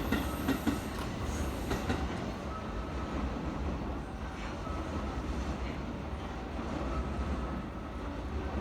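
A train rolling through a station with a steady low rumble, and a few wheel clacks over rail joints in the first couple of seconds.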